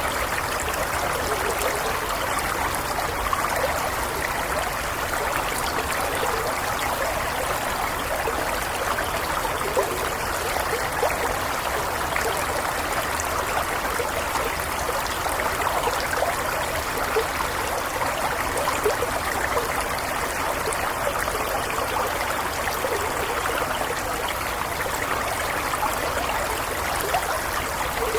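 Small stream flowing steadily, a continuous babble and trickle of water over stones, even in level throughout.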